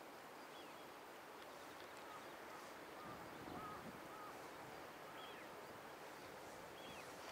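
Faint steady background hiss with a few short, faint bird chirps scattered through.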